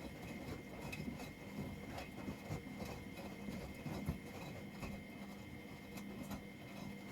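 Washing machine running a wash cycle: the drum turns over with irregular soft knocks and clatter above a steady motor hum.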